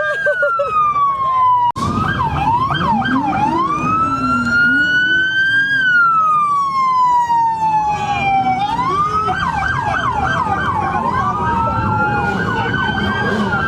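Police car sirens alternating between a slow rising-and-falling wail and a fast yelp, with two sirens overlapping near the end, over low traffic rumble. The sound drops out for an instant about two seconds in.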